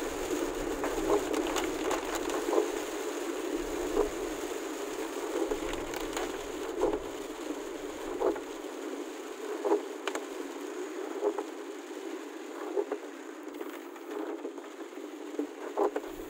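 Heavy rain falling on a vehicle's windscreen and body, heard from inside the cabin: a steady hiss broken by irregular sharp ticks of drops.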